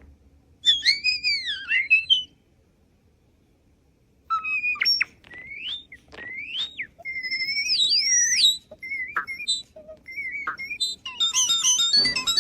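Starling whistling: clear gliding whistles that swoop up and down, in separate phrases with short pauses, ending in a quick dense run of high notes.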